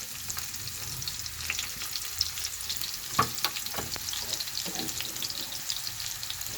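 Chopped onions sizzling and crackling in hot oil in a frying pan, with a few knocks of a spatula against the pan about halfway through.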